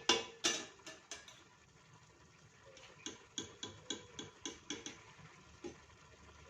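A cooking utensil knocking and tapping against a pan as fried tempe is lifted out: a few sharp knocks at the start and about a second in, then a quick run of lighter taps, about four a second.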